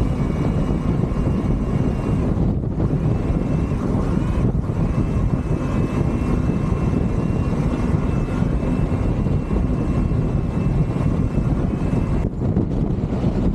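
Strong wind buffeting the microphone in a dense, steady low rush, with a faint steady whine underneath.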